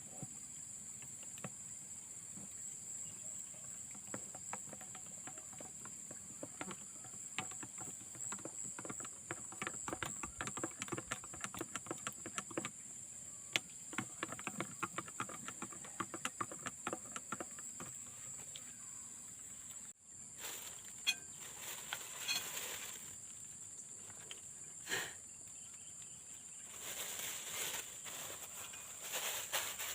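Steady high insect chirring, typical of crickets or cicadas, with many small clicks and taps over it. After a sudden cut about two-thirds of the way in, louder bursts of rustling noise follow.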